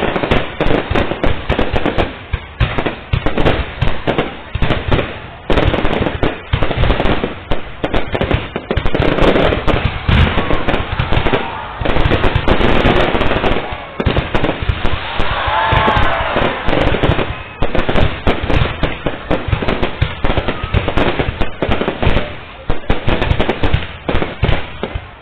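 Fireworks display going off in a dense, continuous barrage of rapid bangs and crackles, with no real pause.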